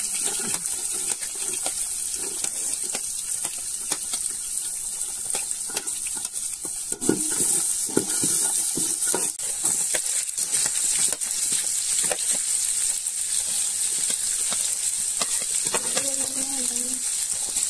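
Garlic, curry leaves and green chillies sizzling in hot oil in an aluminium pot, with a slotted spatula stirring and scraping the pot in sharp clicks and scrapes: the first stage of frying a masala.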